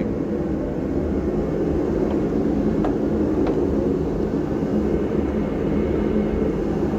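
Steady low mechanical hum, constant in level, with two faint clicks about three seconds in.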